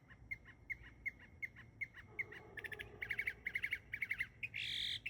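Bird calling: a steady run of short chirps, about three a second, then quick clusters of three or four notes, and a loud harsh squawk near the end.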